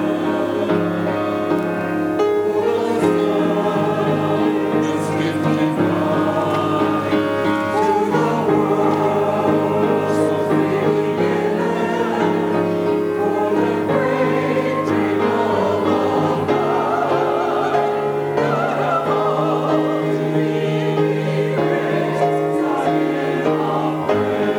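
Church choir singing an anthem with instrumental accompaniment, sustained chords held over a steady bass line.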